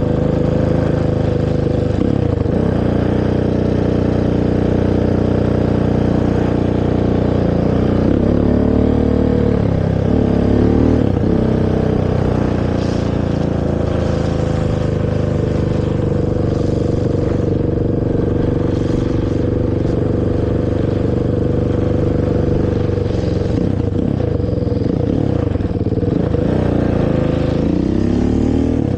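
Honda TRX450R quad's single-cylinder four-stroke engine on its stock exhaust, running under way. Its pitch dips and climbs again a couple of seconds in, around ten seconds in, and near the end, as the throttle is let off and opened.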